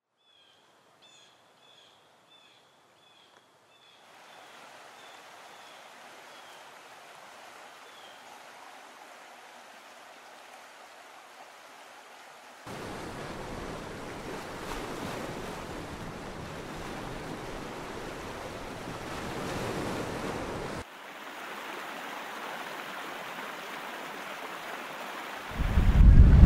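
Small ocean waves washing onto a sandy beach, a steady rushing that comes in a few separate stretches and gets louder about halfway through. Faint high chirps at the start, and a loud low wind rumble on the microphone near the end.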